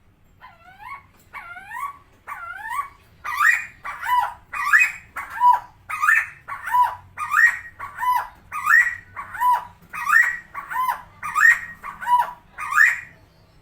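Helmeted friarbird (Philemon buceroides) calling: a long run of harsh, repeated notes, each sweeping up and down in pitch. It starts with three softer notes, then keeps up a loud, steady series a little faster than one per second until shortly before the end.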